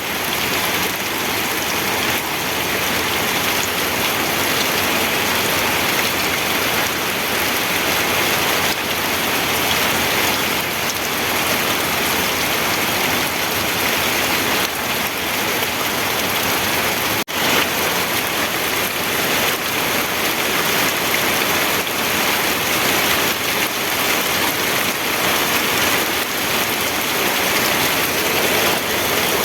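Steady rain falling: a dense, even hiss of drops with a momentary drop-out a little past halfway.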